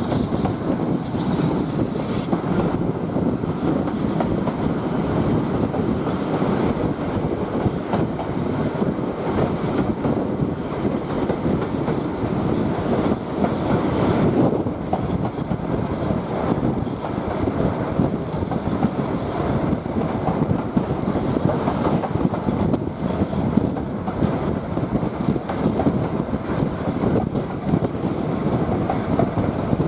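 Steady rumble and rattle of a steam-hauled heritage passenger train's carriage running along the line, heard from on board.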